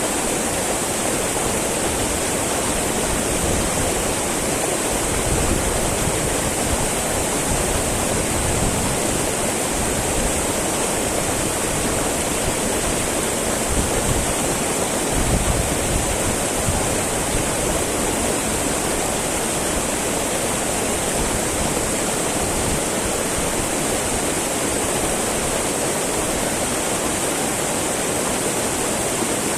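Small mountain river babbling over rocks: steady, continuous rushing water with small low swells now and then.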